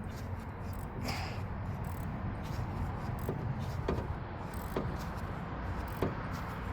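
Hand tool working a 10 mm water-pump bolt loose on a Honda CR-V engine: short metallic clicks and knocks at uneven intervals of about a second, over a steady low hum.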